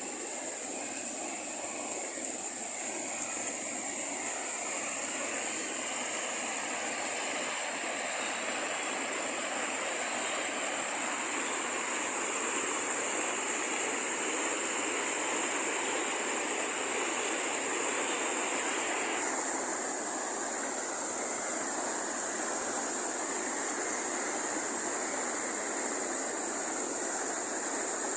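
Waterfall: rushing, splashing water making a steady roar.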